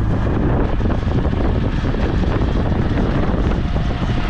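Ride noise inside a moving auto rickshaw (tuk-tuk): its motor running with jolting and rattling, and wind buffeting the microphone.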